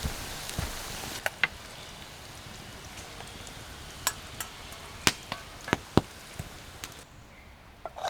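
A series of sharp, irregular knocks, about nine in all, over a steady hiss that drops away about a second in.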